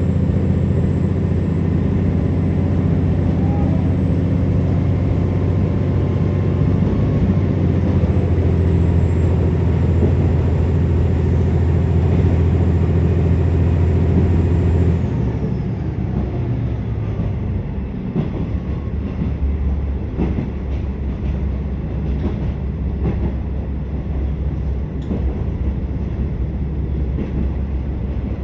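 KiHa 47 diesel railcar heard from inside the passenger car: the engine runs steadily under power, then about halfway through the power is cut and the loud engine note and a high whine fall away. The car then coasts, with lower running noise and the clack of wheels over rail joints.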